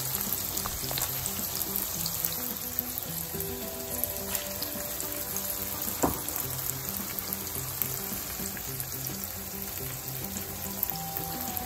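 Chopped sweet peppers and garlic sizzling steadily in hot oil in a frying pan, with one sharp knock about six seconds in. Soft background music plays underneath.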